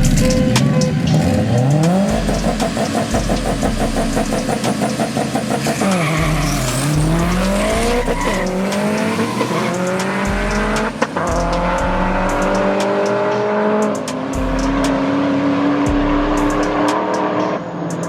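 Street-racing cars' engines at full throttle: the engine note rises, holds with a pulsing beat, dips sharply about six seconds in, then climbs steadily as the cars accelerate hard down the road.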